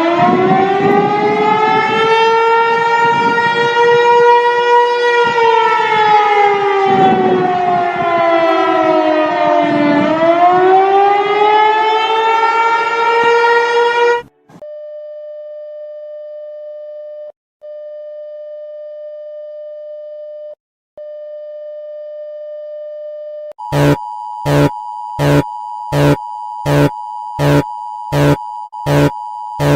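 Emergency alert alarm audio. A siren wail climbs from a low pitch, sways down and back up, and cuts off about halfway through. A steady single tone follows, broken twice briefly. In the last six seconds it gives way to a pulsing beep, about two a second.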